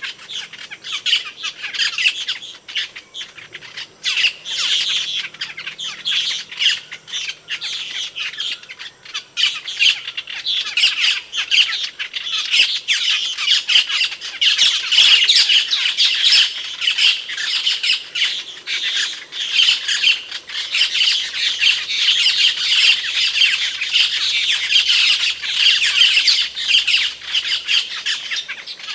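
Asian glossy starling calling: a loud, nonstop stream of short, sharp squawks and chattering notes.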